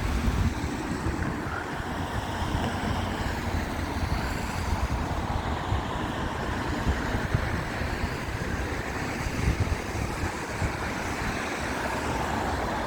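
Steady road traffic noise from vehicles passing on a wet road, with a continuous low rumble.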